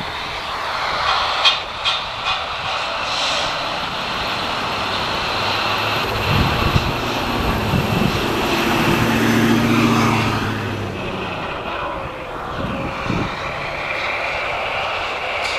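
Jet airliner engines running with a steady high whine, with wind gusting on the microphone.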